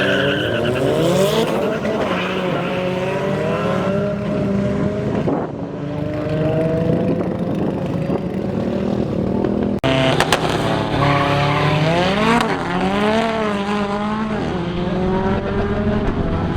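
Turbocharged Saab B204 four-cylinder engine of a race car with screamer pipes, revving hard, its pitch climbing and dropping again and again through runs and shifts. The sound breaks off abruptly twice, near a third and a bit over halfway, where one run gives way to another.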